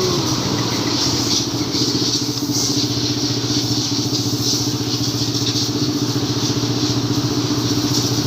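Small motorcycle engine, a 50 cc mini trail bike, idling steadily.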